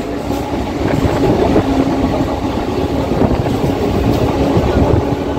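Kolkata suburban electric local train running on the rails, heard from on board through an open window: a steady loud rumble of wheels and running gear with occasional clacks over the track.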